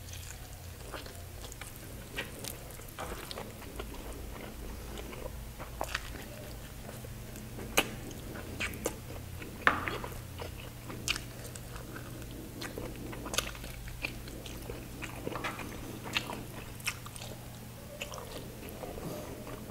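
A person chewing a mouthful of chicken and rice eaten by hand, with irregular wet mouth clicks and smacks. Two louder smacks come about eight and ten seconds in, over a low steady hum.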